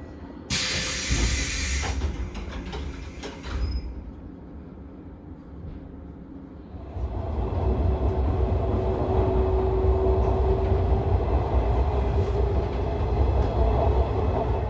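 JNR 113 series electric train: a sudden loud hiss of air about half a second in, lasting a little over a second. From about halfway, the rumble of the running train grows louder and holds steady, with a steady hum running through it.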